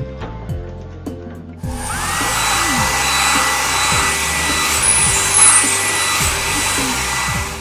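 Cartoon car-wash machine sound effect: a loud steady hiss with a high whine that rises in, starting a little under two seconds in and cutting off suddenly near the end, over background music with a steady beat.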